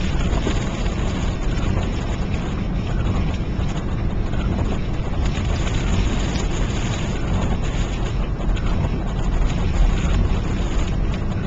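Steady rumble of a car driving on the highway, heard from inside the cabin: road and engine noise with no change through the stretch.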